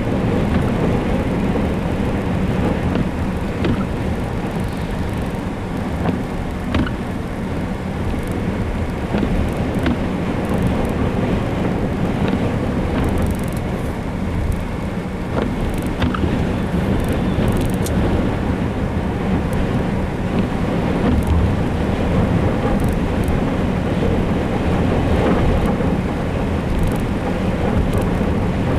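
Steady low rumble of wind and rain during a tornadic thunderstorm, with scattered sharp taps throughout.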